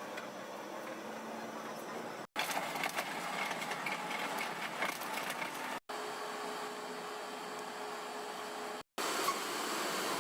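Steady engine and road noise of a city bus, heard from inside while it drives. It comes in four short stretches, each ending in a sudden break. In the third stretch a faint steady whine runs through.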